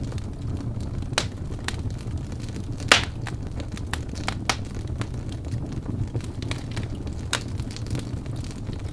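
Wood fire burning in a fireplace: a steady low rush of flames with irregular sharp crackles and pops from the burning logs, the loudest pop about three seconds in.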